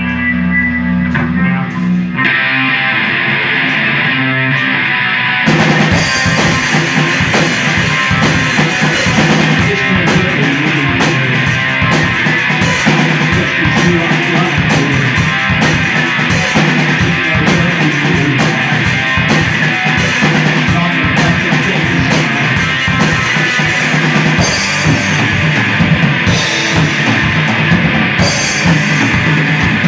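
Live rock band starting a song: a few low guitar and bass notes, then heavily distorted electric guitar comes in about two seconds in. A few seconds later the drum kit and the full band enter together and play a loud, driving heavy rock groove.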